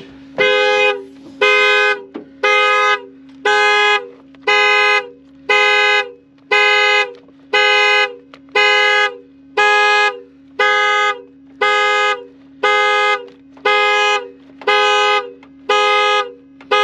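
Car alarm sounding the car's two-note horn in a steady rhythm of short blasts, about one a second, set off by a door being opened.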